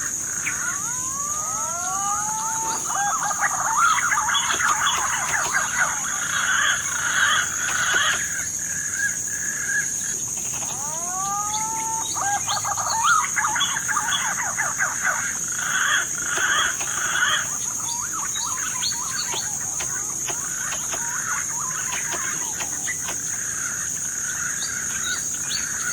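Songbird singing: two long bouts about ten seconds apart, each opening with rising whistled sweeps and going on into fast twittering chatter. A steady high-pitched whine runs underneath throughout.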